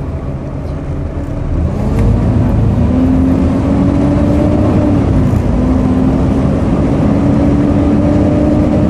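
Volvo B7TL double-decker bus's 7-litre six-cylinder diesel pulling away, with turbo whine. The pitch rises and the level builds over the first two seconds. It dips briefly about five seconds in, as at a gear change, then holds steady.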